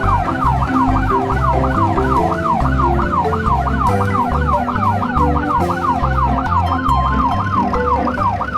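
A siren wailing quickly up and down, about three sweeps a second, over background music with a low bass line.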